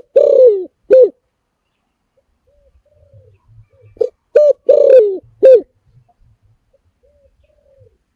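Spotted dove cooing: two song phrases about four seconds apart, each a few short coos around one long coo that slides downward, with fainter coos from another dove between them.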